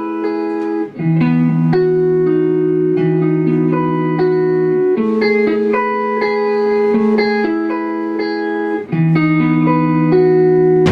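Electric guitar playing a slow, repeating pattern of held chords as a song intro, with brief breaks between phrases about a second in and near the end.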